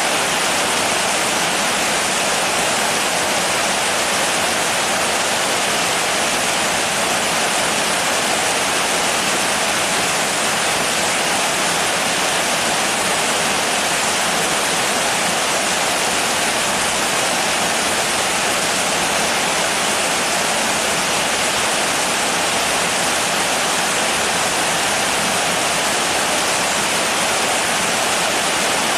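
Steady, dense rainfall: an even, unbroken hiss at constant strength.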